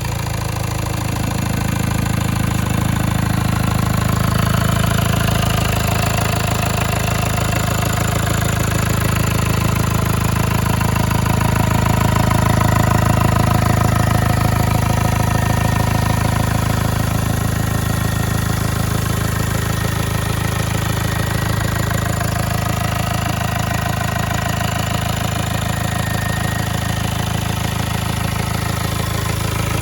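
Ford 2.0 TDCi diesel engine (code T8DA) idling steadily on a test run, warmed up, with no knocking or banging. It has no airbox fitted, so the intake sound is heard plainly.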